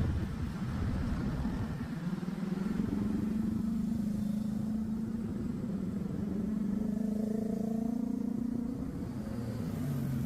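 Motorcycle engine running steadily while riding on the road, with a low rumble of road noise. Its pitch holds fairly even, with small rises and dips.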